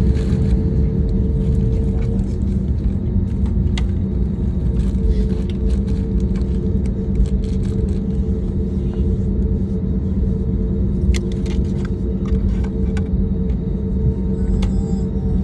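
Steady low rumble of a moving vehicle, heard from inside, with a constant engine hum and scattered light rattles and clicks.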